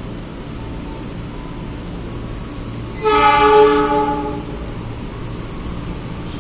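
A train horn sounds a single blast of about a second and a half, a chord of several steady tones, over a steady low rumble of railway noise.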